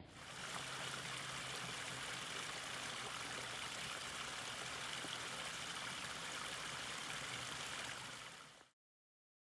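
Steady rushing of flowing water, like a stream, with a faint low hum under it; it cuts off suddenly near the end.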